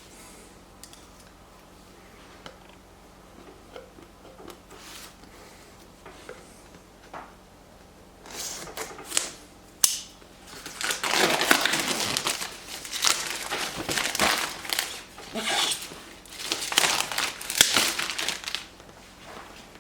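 Packaging being unwrapped and handled. A few faint clicks and taps come first, then from about eight seconds in there is loud crinkling and rustling in irregular bursts.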